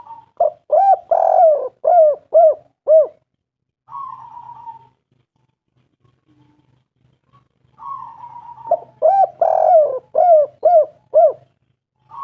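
Spotted dove cooing: two song bouts, each a short hoarse note followed by a run of about six loud, rounded coos, with a pause of about five seconds between the bouts.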